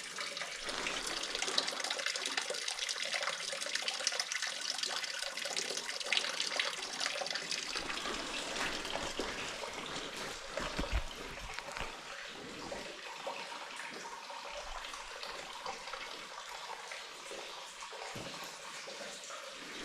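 Cave spring water running and trickling steadily, with a few soft low knocks around the middle and near the end.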